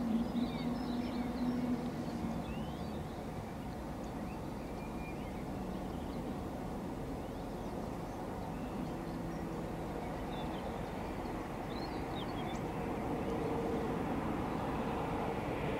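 A train running at a distance, its steady rumble with a low hum slowly growing louder toward the end, while small birds chirp now and then.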